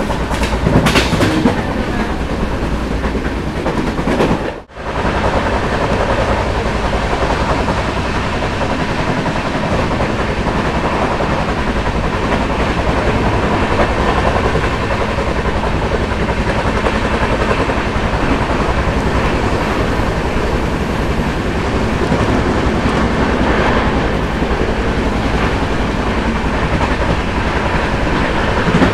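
Passenger train running at speed: the steady rumble and rattle of coach wheels over the rails. The sound cuts out for a moment about four to five seconds in, then carries on the same.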